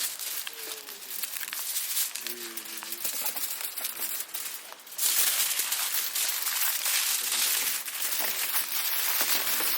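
Crinkling and rustling with many small clicks, as of hands handling crinkly wrapping; about halfway through it gives way abruptly to a louder, steady hiss.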